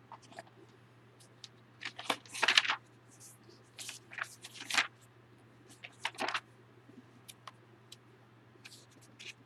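Paper rustling and crinkling in several short bursts, loudest about two and a half seconds in, over a steady low electrical hum.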